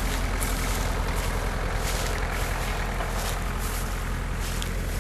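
Off-road vehicle engine running steadily at idle, with wind buffeting the microphone.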